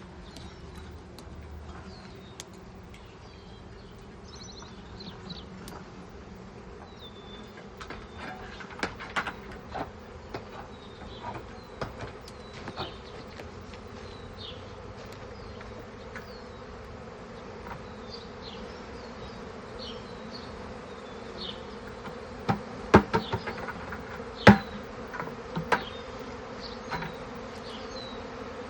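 Honeybee swarm buzzing in a steady hum as the bees fly up after being shaken into a hive box. Sharp knocks sound now and then, in a loud cluster about 23 to 25 seconds in.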